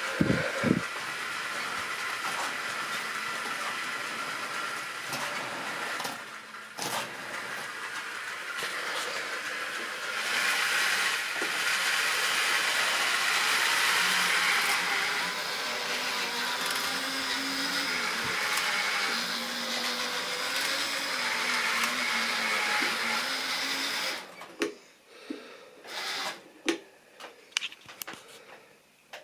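Model railway train running on track: a steady whirring electric motor with wheel rattle, louder for a few seconds in the middle, that stops suddenly about 24 seconds in, leaving a few scattered clicks.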